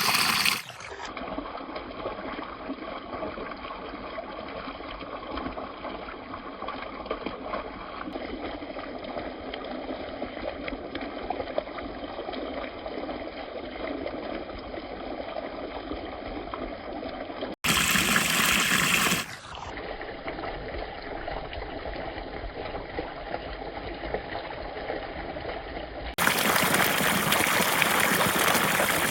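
Water pouring and splashing at a small waterfall, a steady rushing with no pauses. It turns louder and brighter for a moment about two-thirds of the way through, and again over the last few seconds.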